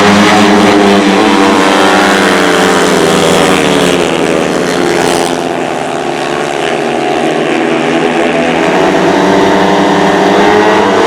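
Speedway motorcycles racing, their single-cylinder methanol engines running at high revs. The engine note falls and eases off midway, then climbs again near the end.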